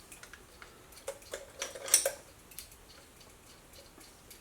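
Scattered light metallic clinks and taps of hand tools and small metal parts being handled, the clearest about two seconds in.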